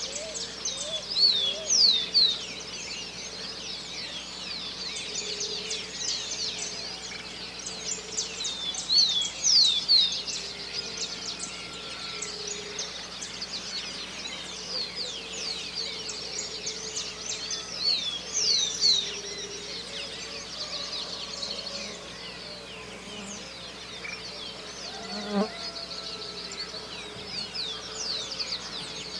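Dawn chorus of many birds: dense, overlapping high chirps and short whistled notes, with louder bursts of song near the start, about a third of the way in and about two-thirds in. Lower repeated calls and a steady low hum run underneath.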